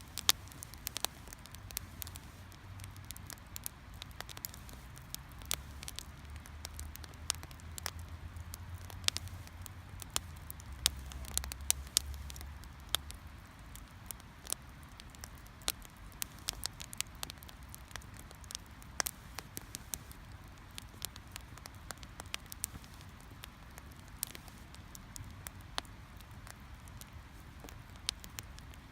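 Wood fire crackling in a fire pit: sharp, irregular pops several times a second over a soft steady hiss, with a low rumble under the first half.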